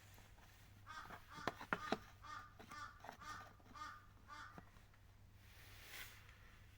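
A bird's harsh calls repeated in quick succession for about three and a half seconds, with three sharp clicks partway through.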